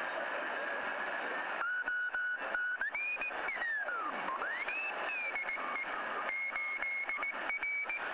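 Shortwave radio static hiss. About a second and a half in, a whistling tone cuts in: it rises, slides down, climbs back up and then holds steady, with crackles throughout.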